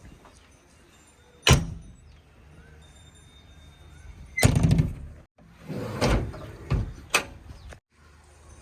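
Heavy thuds and bangs of a JCB 3DX backhoe loader's bucket dumping mud into a steel tipper body: one sharp bang, then a longer crash and a few more knocks, over a low steady diesel engine hum. There are two very short dropouts to silence.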